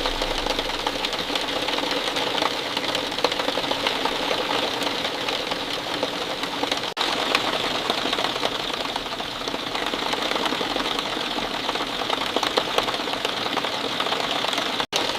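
Steady heavy rain, a dense patter of countless drops, that drops out for an instant about halfway through and again near the end.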